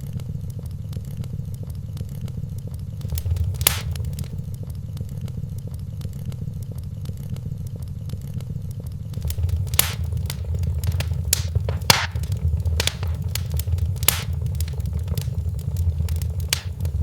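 Wood fire crackling in a fireplace, with a steady low rumble of the flames under scattered sharp pops. The pops come thicker from about nine seconds in, with a loud one near the start and another around twelve seconds.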